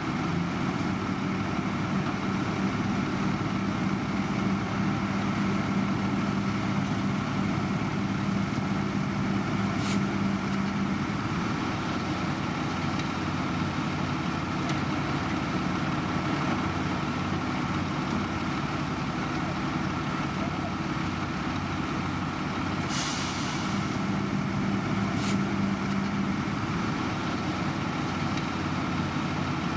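Heavy road-construction machinery engines running steadily with a low, even hum. About 23 seconds in there is a short hiss of air, like a truck's air brake releasing.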